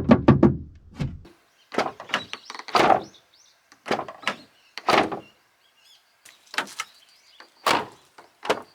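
Car door of an Abarth 500/595 being shut over and over, a sharp clunk each time, some closes doubled by a quick second knock. This is the ガタガタ rattling, flapping noise the door makes after closing: something loose inside the door.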